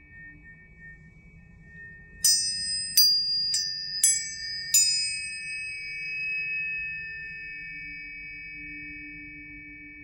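Planetary tuning forks ringing with several steady tones. About two seconds in they are struck five times in quick succession, each strike adding a bright, high ring that slowly fades away.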